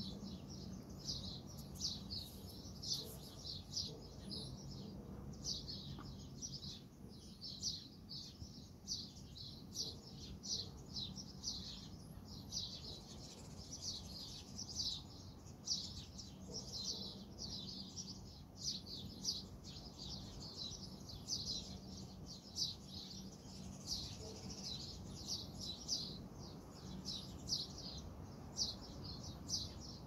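Small birds chirping continuously, a steady stream of short high chirps several a second.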